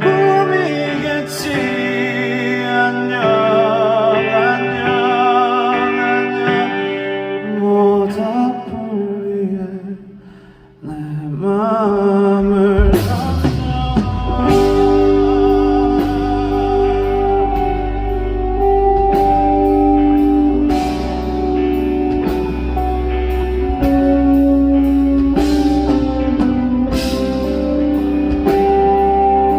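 Live pop ballad band music: wordless singing with vibrato over soft accompaniment, which fades out about ten seconds in. Then the full band comes in with drums, bass and guitar for an instrumental passage.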